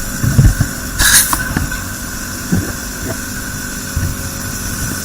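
Vehicle engines running as a low, uneven rumble, with a short rush of noise about a second in.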